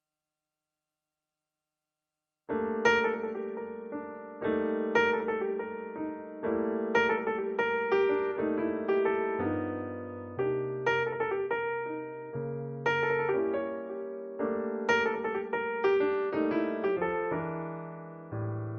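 Silence, then background piano music starts about two and a half seconds in, with struck notes and chords that ring and fade one after another.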